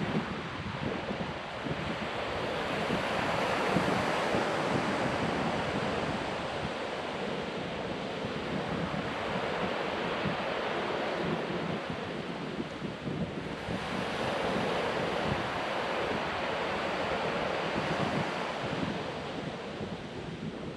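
Ocean surf breaking and washing up a sandy beach, swelling louder and easing off in slow surges, with wind on the microphone.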